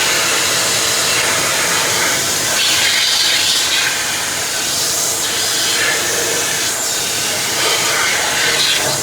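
Steady, loud hiss of rushing air, like a blower or vacuum at work, swelling briefly a few times.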